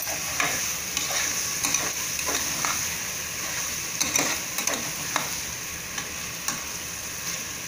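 Mushrooms, tomatoes and onions sizzling in hot oil in an aluminium pressure cooker as a metal spatula stirs them, scraping and clicking against the pot now and then.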